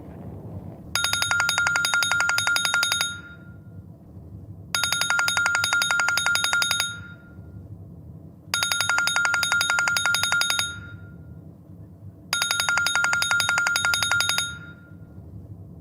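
Phone ringing with an old-style trilling bell ringtone: four rings of about two seconds each, with a pause of a little under two seconds between them. A faint low steady hum runs underneath.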